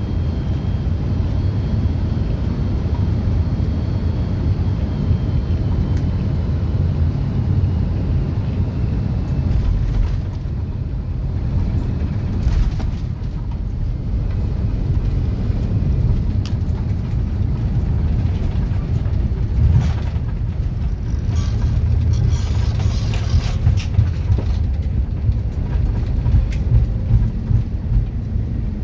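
Steady low rumble of an Airbus A330's engines and airflow, heard inside the passenger cabin, with a rise in hiss about twenty seconds in.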